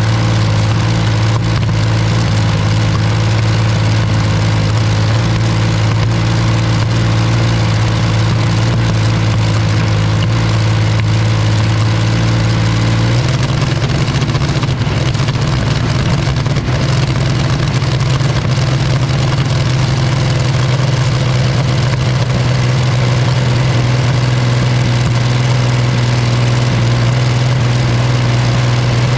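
Rolls-Royce Meteor V12 engine running loudly and steadily. About 13 seconds in its note shifts slightly and turns rougher, a change in engine speed.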